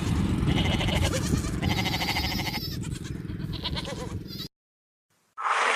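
Livestock bleating over a steady low rumble of background noise. The sound cuts off abruptly about four and a half seconds in, and a different sound starts just before the end.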